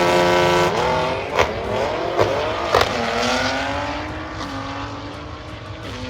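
Drag race car accelerating hard down the strip: the engine note climbs, then drops at each gear change and climbs again, with a sharp crack at three of the shifts. It fades as the car pulls away.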